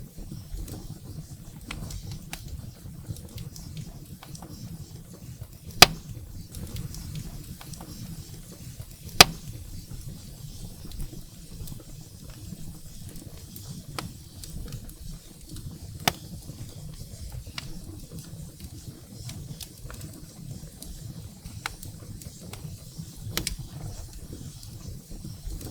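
Firewood burning in a fireplace: a steady low rumble of flames under constant small crackles, with sharp single pops about 6 and 9 seconds in and a smaller one around 16 seconds.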